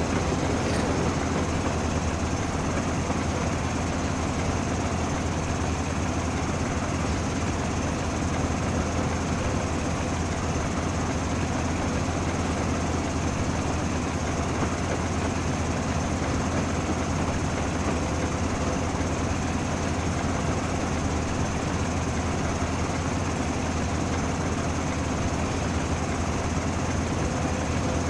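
Steady low rumble and hum of a train, with a faint high whine and no rail-joint clicks.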